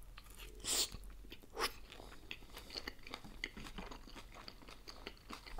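A person chewing a mouthful of dumpling close to the microphone, with many small wet clicks and smacks of the mouth; two louder chews stand out in the first two seconds.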